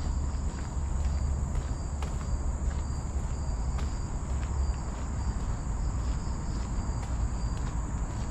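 Insects droning with a steady high buzz and short repeating chirps over a constant low rumble.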